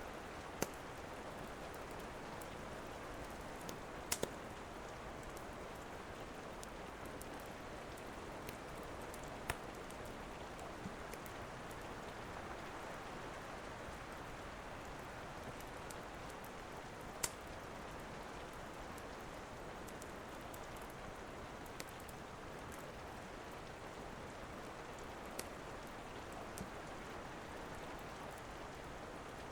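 Steady rain, a soft even hiss, with a few sharp crackling pops from a wood fire scattered through it.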